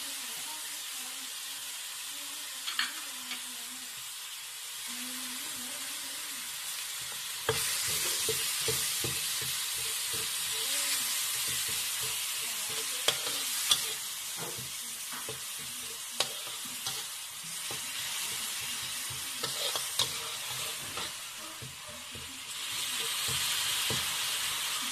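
Food sizzling in a hot pan while being stirred, with sharp clicks of a utensil against the pan. The sizzle gets louder about a third of the way in and again near the end.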